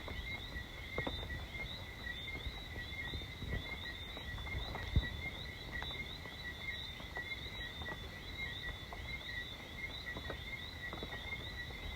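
A dense chorus of frogs, a steady high ringing with many short rising chirps over it. Scattered sharp taps of raindrops on a sheet-metal roof come through, one stronger tap about five seconds in.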